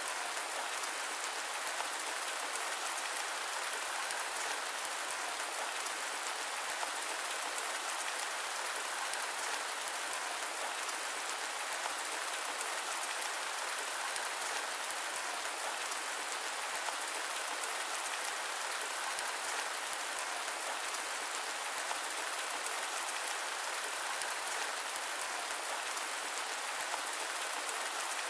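Steady rain with an even hiss and no thunder.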